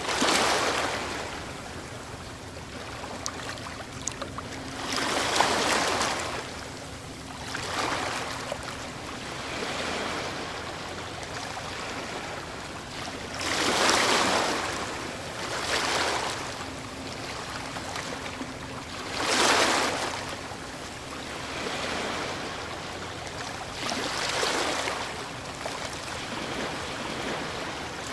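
Ocean waves breaking on a shore, each surging up and washing back every few seconds. The loudest breaks come about halfway through and a few seconds later.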